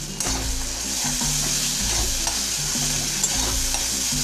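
Onion-tomato masala frying in mustard oil in an aluminium kadai, with a steady sizzle. A metal spatula scrapes and stirs through it as ginger-garlic paste is worked in.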